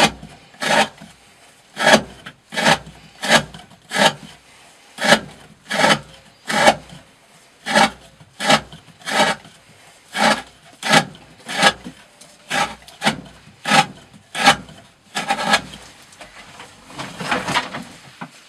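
Green Thorn 95 Hati D2-steel knife, freshly sharpened to a 40° edge, slicing through 20 mm rope again and again, each cut a short rasp, about one and a half cuts a second. Near the end the cuts run together into a longer, rougher rasp.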